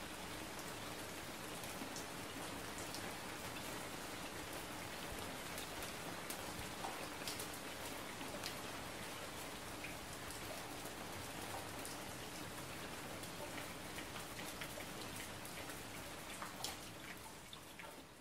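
Steady rain-like patter with scattered small ticks.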